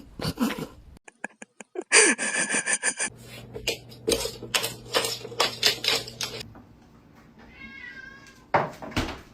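A domestic cat meowing once, a short call near the end, after a run of clicks and knocks.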